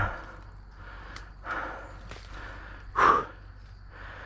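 A person breathing hard in heavy exhales, about one every second and a half, with the loudest near the end, while pushing on foot through thick brush.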